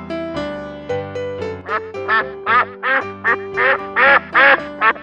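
Duck quacking in a quick run of about eight quacks, starting about a second and a half in, over electric-piano background music.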